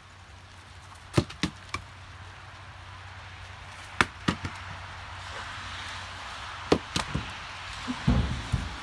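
Firewood logs being tossed onto a pile: three pairs of sharp wooden knocks, about three seconds apart, over a steady hiss.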